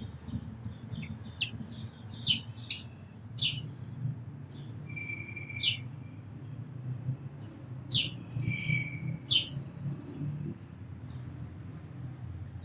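Small birds chirping: a quick flurry of high chirps, then a handful of sharp, loud chirps a second or two apart, some joined to a short steady whistle. A steady low rumble runs underneath.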